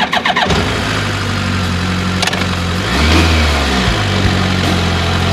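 BMW K1200GT's inline-four engine running at a steady speed with wind noise over the microphone. The engine note drops and comes back up about three seconds in.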